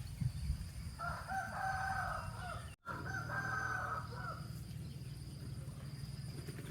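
Rooster crowing: one long call starting about a second in and lasting about three seconds, broken by a brief dropout midway.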